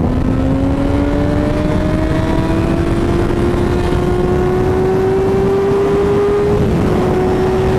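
2006 Yamaha R1's inline-four engine pulling steadily, its pitch rising slowly for about six seconds, then dipping slightly near the end and holding level, over heavy wind rush on the helmet microphone.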